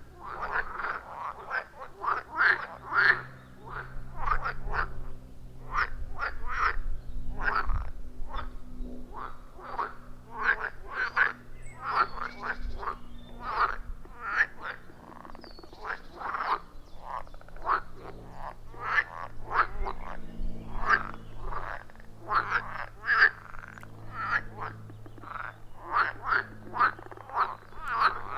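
A chorus of many frogs croaking at a pond, short calls overlapping several times a second with no break, over a steady low drone.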